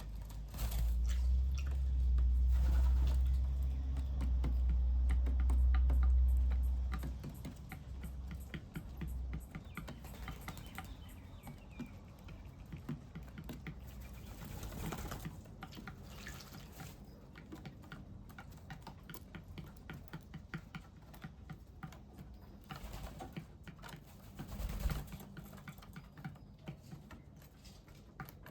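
Birds at a feeder and bird bath: a steady patter of small clicks and taps, with faint bird calls. A low rumble runs for the first seven seconds or so.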